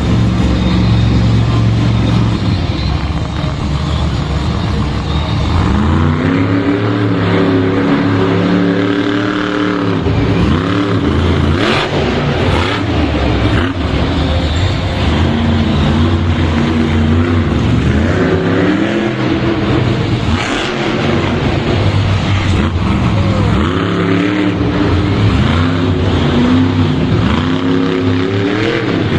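Monster truck engine running loud and revving in repeated surges, its pitch climbing and falling every few seconds over a steady low rumble.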